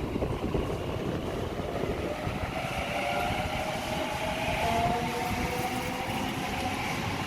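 Electric suburban train running along the track: a steady low rumble, joined about two and a half seconds in by a whine of several steady tones that sag slightly in pitch.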